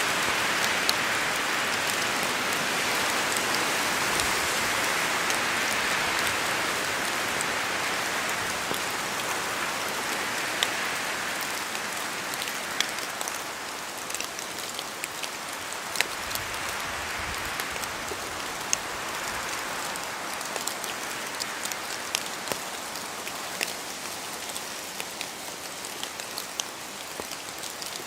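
Rain falling through spruce trees: a steady rush of rain with many separate heavier drops clicking down among it. The rush is strongest in the first several seconds and slowly eases off.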